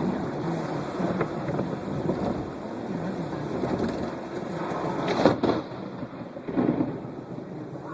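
Steady rain and wind noise during a thunderstorm, broken by a sudden loud thunder crack about five seconds in and a second, lower burst of thunder about a second and a half later.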